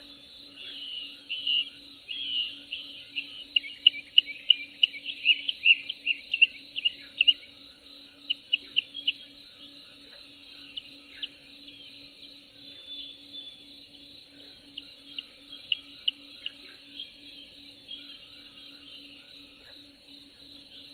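Nature ambience of songbirds chirping over a steady high insect drone: a quick run of sharp chirps for the first several seconds, then scattered chirps. A faint low steady hum runs underneath.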